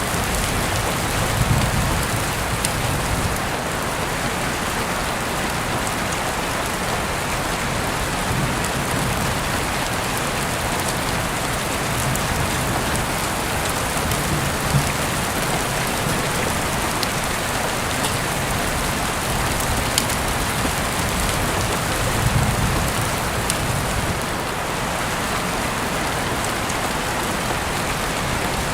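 Steady rain falling, with a few faint sharp clicks now and then and a few brief low rumbles.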